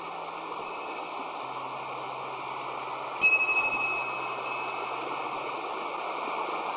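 Steady rushing of a waterfall. A small metal bell rings once, clearly, about three seconds in and fades away over about a second.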